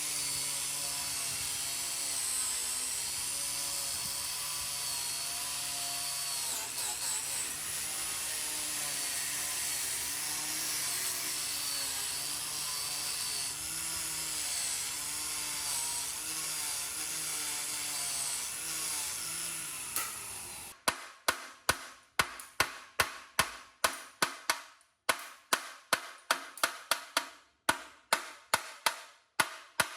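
A power tool running against the pallet truck's metal, its pitch wavering as it is pressed into the work. About 21 seconds in it stops and sharp hammer blows follow, about two a second with a couple of short pauses.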